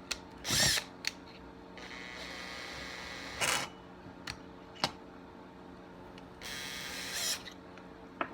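Small clicks and clatter of metal tools and parts being handled and set in place, with two short stretches of hiss, over a steady low hum.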